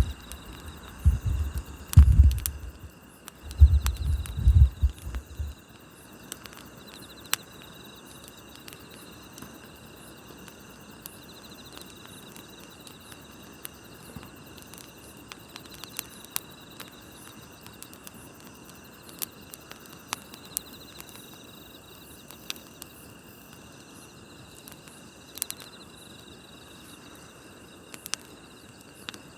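Campfire crackling with scattered sharp pops over the steady chirping of night crickets. Loud low rumbling bumps come in the first five seconds.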